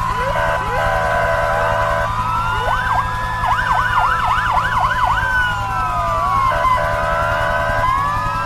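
Several sirens sounding at once: slow wails gliding up and down and overlapping, with a fast yelp of quick up-and-down sweeps about three to five seconds in. Blocks of steady tone come at the start and near the end, over a constant high tone and a low buzz.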